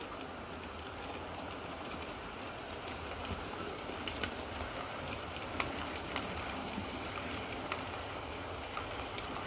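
Model railway trains running round the layout: a steady rumble of wheels and motors on the track, with irregular sharp clicks as wheels cross rail joints.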